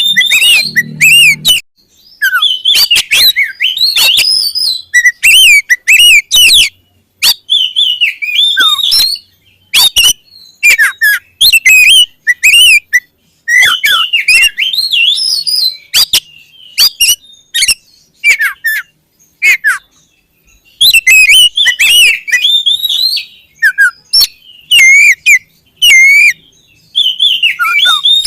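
Oriental magpie-robin (kacer) singing loudly in fast, varied bursts of whistles and chirps, with short pauses between phrases.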